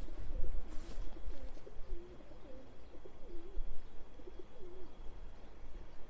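A bird's low calls: a string of short wavering notes that rise and fall, ending about five seconds in, over a steady low rumble.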